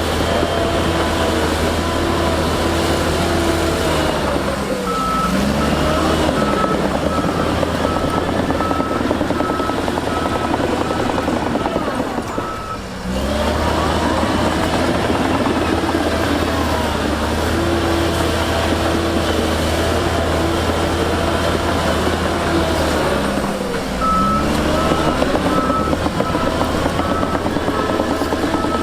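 Heavy diesel earthmoving machines, a bulldozer and dump trucks, running steadily, their engine pitch sweeping up and down a couple of times. A reversing alarm beeps steadily from about five seconds in until about twelve seconds, and starts again near the end.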